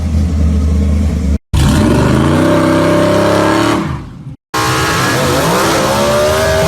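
Three short cut-together clips of 1960s gasser drag car engines: one running with a steady low rumble, one revving up and back down, and one accelerating with a rising pitch.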